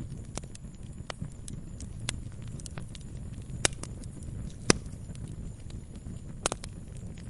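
Wood fire burning with a steady low rumble and irregular crackles, a few sharper pops standing out about halfway through and near the end.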